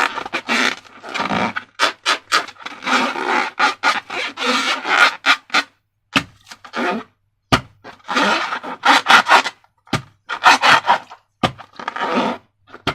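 Slime being worked by hand with rubber balloons: irregular rubbing, scraping and squishing strokes in quick succession, with a few sharp clicks and short pauses.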